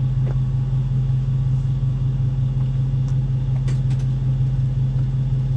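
A steady low hum with no change in pitch or level, with a few faint clinks about three to four seconds in.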